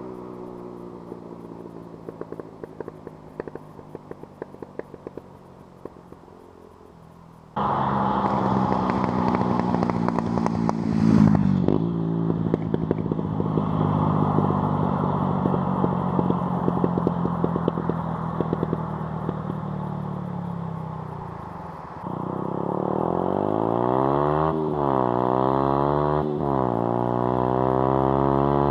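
Yamaha YZF-R125's single-cylinder 125 cc four-stroke engine running through an Arrow racing non-cat header and Arrow Darkline Street Thunder silencer with the dB-killer removed. It starts quieter with scattered sharp pops, turns abruptly much louder about seven seconds in and runs steadily, drops off around twenty seconds in, then revs up and down repeatedly near the end.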